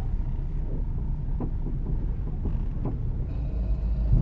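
Low, steady rumble of a 2010 Ford Focus with a 2.0-litre inline-four, heard from inside the cabin as it rolls slowly into a parking lot, with a few light knocks.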